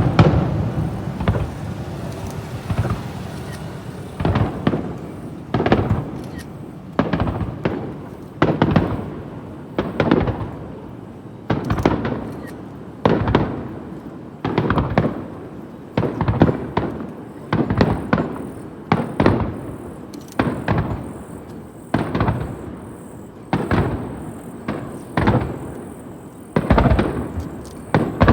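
Aerial firework shells of a starmine display bursting in rapid succession: a sharp bang roughly every second, with smaller bangs between, each trailing off in an echo.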